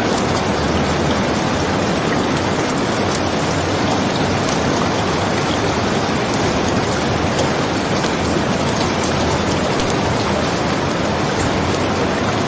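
Steady, dense rain with a constant rushing hiss and faint scattered ticks of drops.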